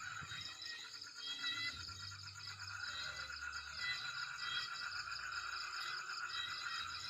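Steady, fast-pulsing trilling chorus of calling animals, with short higher chirps recurring about every second and a half.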